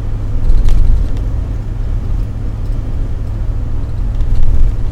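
Steady low rumble of a car driving on the road, with one faint click less than a second in.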